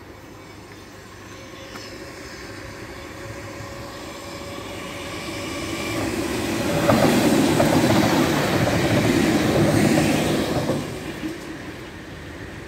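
Merseyrail electric train passing over a level crossing: its sound builds over several seconds, is loudest for about four seconds with wheels clattering over the rails, then fades away quickly.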